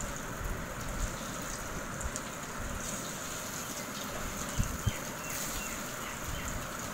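Beef kebabs deep-frying in hot oil in a frying pan: a steady sizzle, with a couple of soft knocks a little past halfway.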